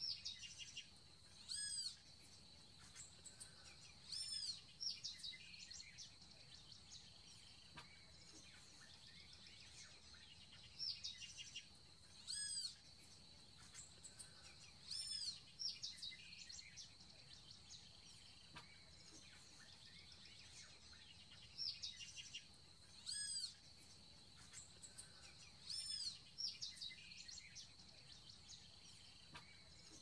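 Bird calls: bunches of short, high whistled notes, each rising then falling in pitch, repeated every few seconds over a faint steady high hum.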